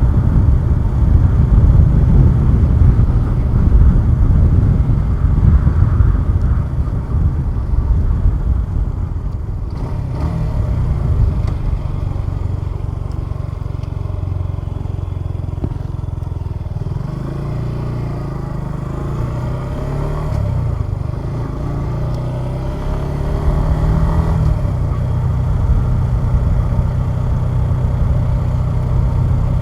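Suzuki Gixxer 150SF single-cylinder motorcycle engine on the move, heard from the rider's position. Wind buffeting on the microphone dominates at first. About a third of the way in the engine settles to a steady note, and later its revs rise and fall through the gears before it evens out again near the end.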